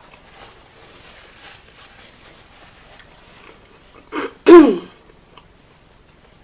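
A woman clearing her throat: a short sound about four seconds in, then a louder voiced one that falls in pitch.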